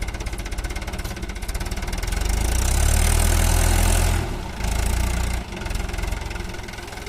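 Mahindra tractor's diesel engine running with an even knocking beat, then revving up hard about two seconds in. It dips briefly, revs again for under a second, and drops back to a steady idle.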